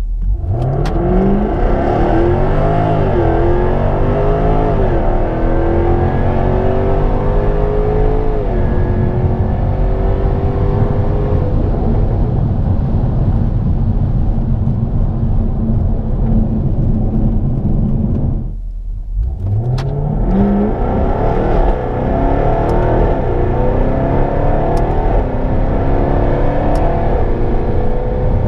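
2016 Jaguar F-Type R's supercharged V8 accelerating hard through the gears, its pitch climbing and dropping back at each upshift. After a brief break about two-thirds of the way through, a second pull starts from low revs and climbs through the gears again.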